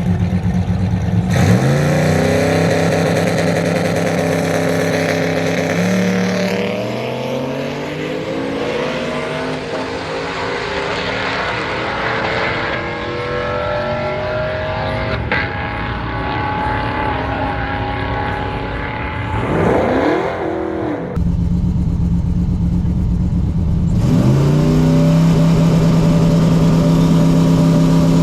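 Turbocharged LS V8 in a lowered OBS Chevy/GMC pickup running a hard drag-strip pass. Its pitch climbs, drops back at a gear shift and climbs again, and the sound changes abruptly a couple of times. The turbo is hard to spin and slow to spool.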